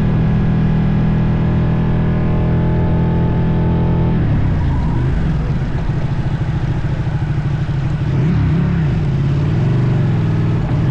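Motorcycle engine running steadily, then its pitch rising and falling repeatedly from about four seconds in as the throttle changes.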